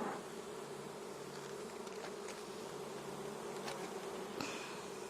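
Swarm of honey bees buzzing around an opened hive in a steady, many-voiced hum, with a few faint clicks.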